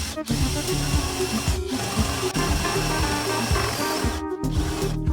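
A power tool running steadily with a high whine under background music, stopping about four seconds in.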